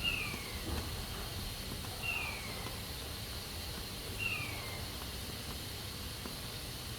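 Pressure cooker hissing steadily as it vents steam. A short, high, falling whistle-like call repeats about every two seconds over the hiss.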